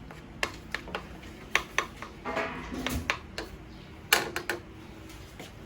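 Kitchen utensils and containers being handled, giving a string of scattered light clicks and knocks, the sharpest cluster about four seconds in.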